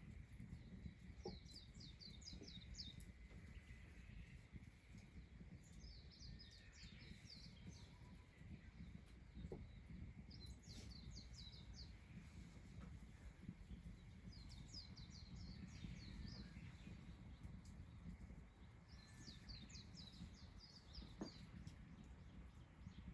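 A small bird singing, repeating the same short phrase of rapid high notes about every four to five seconds, faint over a low steady rumble.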